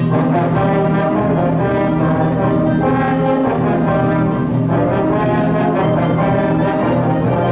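High school concert band playing, with the brass section carrying held chords that change about every second.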